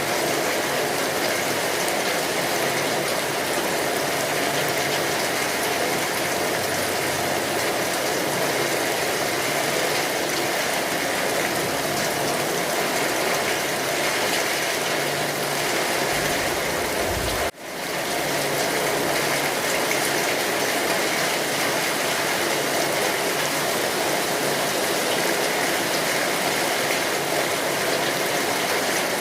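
Steady rainfall, an even hiss of rain with no rhythm, briefly dipping and recovering about seventeen seconds in.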